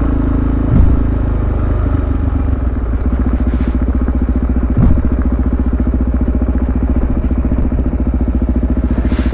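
Motorcycle engine running steadily at low revs, its firing pulses even. Two short thumps come through, about a second in and again about halfway.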